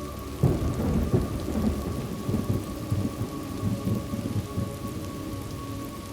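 Steady rain with a thunderclap about half a second in, a sudden crack that rolls into deep rumbling and fades over the next few seconds.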